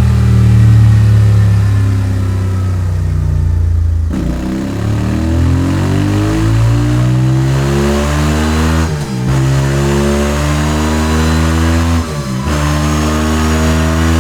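VOGE DS 625 X parallel-twin engine breathing through a Scorpion slip-on exhaust, run hard on a dyno. It holds a steady high note, drops about four seconds in, then climbs in pitch in repeated rising pulls, with two short dips in between.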